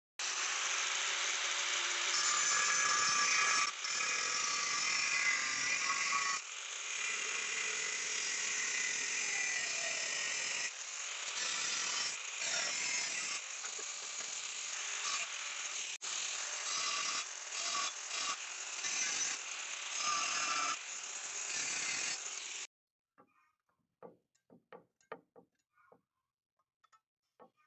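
Loud metalworking noise from welding-shop tools, in several stretches joined by abrupt cuts. It stops suddenly about three-quarters of the way through, leaving only a few faint clicks.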